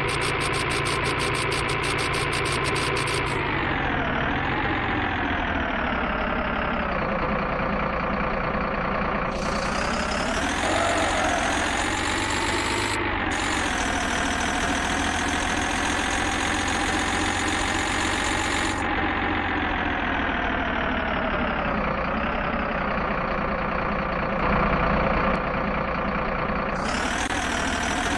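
A truck engine running steadily, its pitch sagging and then rising again several times.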